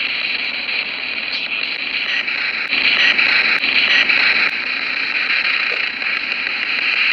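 Spirit box radio scanning through stations: a steady hiss of radio static, broken by brief clicks and changes each time it jumps to the next channel.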